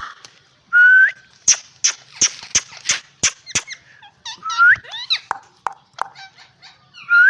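Rose-ringed (ringneck) parakeets calling: a rising whistle about a second in, then a quick run of sharp, short squawks, followed by chirps and another rising whistle near the end.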